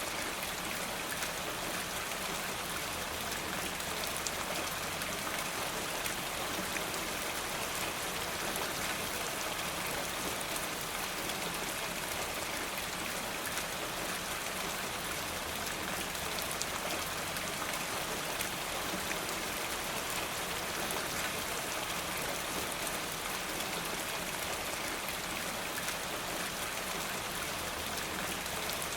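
Steady rain falling, an even hiss with scattered small drop ticks throughout.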